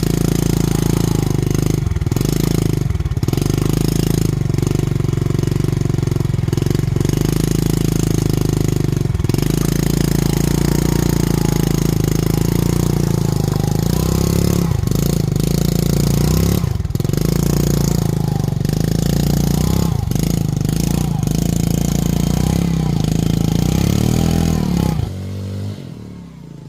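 A small engine running steadily with slight rises and falls in pitch, its level dropping sharply near the end.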